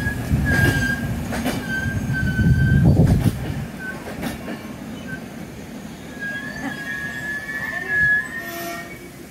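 Passenger train pulling slowly out of the station, its wheels squealing on and off in a high steady tone. Under the squeal a low rumble drops away after about three and a half seconds, and a few sharp clanks come through.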